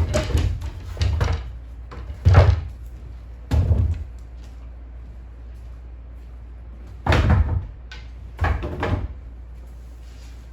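A series of household knocks and bumps, about six in all, irregularly spaced and each half a second or less, over a steady low hum.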